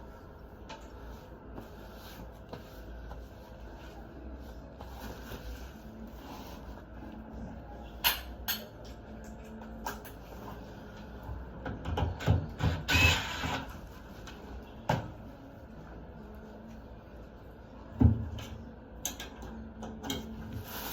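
Scattered knocks and clicks of hand tools and plastic and metal panel parts being handled while taking apart the front of a washer-dryer, with a cluster of rattles and a scrape a little past the middle and one loud thump later on.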